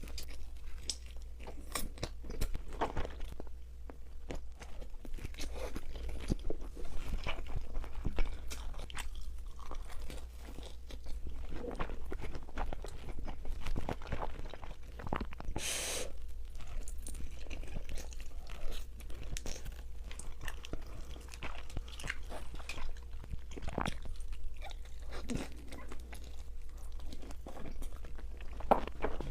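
Close-miked eating sounds: a person biting into and chewing pizza, with irregular crunching and crackling of the crust and wet chewing. One louder crisp crunch comes about halfway through, over a steady low hum.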